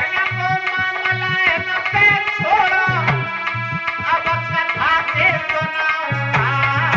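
Alha folk music: a melody with sliding, ornamented notes over a steady hand-drum beat.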